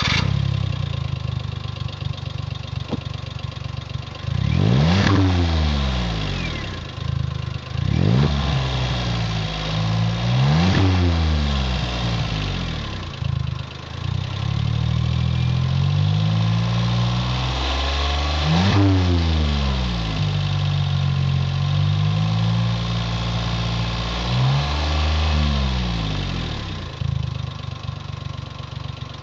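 Smart Fortwo 451's three-cylinder engine idling through an aftermarket exhaust, revved up and let fall back to idle about five times.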